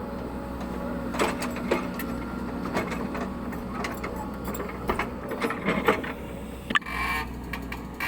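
Caterpillar 307E2 excavator's diesel engine running steadily, with scattered metallic clanks and knocks from the machine at work and a sharp knock near the end.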